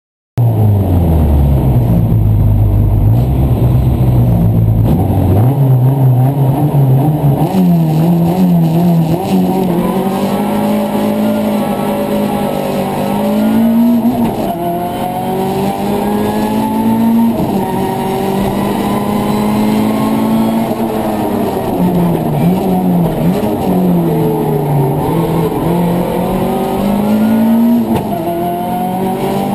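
Rally car engine heard from inside the cockpit, driven at speed: its pitch climbs under acceleration and drops repeatedly at gear changes and when easing off for corners.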